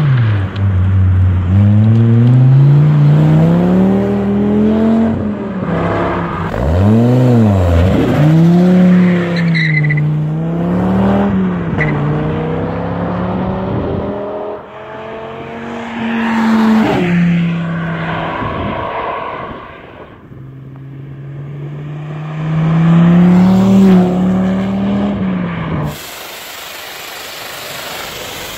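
Dodge Viper RT/10's 8.0-litre V10 through its side-exit exhaust, revving and accelerating: the engine pitch climbs over a few seconds, drops sharply and rises again in several quick throttle blips. Near the end it cuts to a steady hiss.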